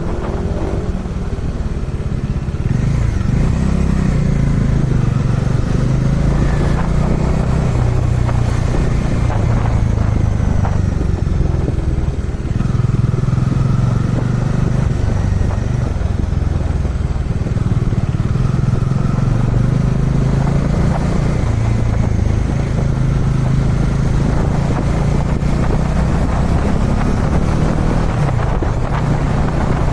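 Kawasaki Dominar 400 UG2's single-cylinder engine running steadily under way, its note rising and falling several times with the throttle.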